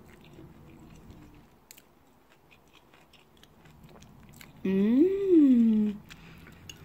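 A woman quietly chewing a bite of sautéed portobello mushroom, with faint soft clicks. About five seconds in she gives one loud closed-mouth "mmm" of approval that rises and then falls in pitch.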